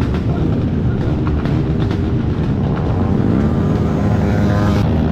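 Motorcycle engines running loudly, with one engine's pitch dropping and rising again about halfway through as it is revved or passes.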